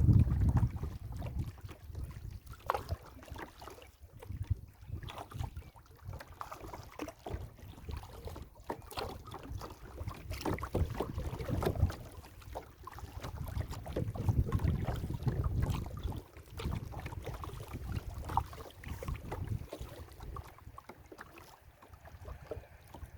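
Water splashing and lapping around a kayak, with gusts of wind rumbling on the microphone that swell and fade, strongest near the start and again about two-thirds of the way through.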